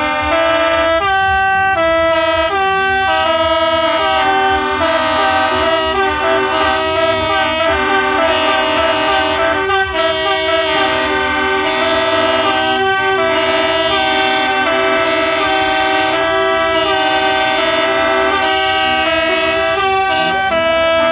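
Several truck air horns sounding together, a chorus of held notes that change pitch in steps like a tune.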